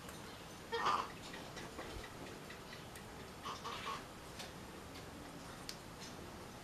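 Faint scattered clicks, with a short scratchy burst about a second in and another a little past the middle.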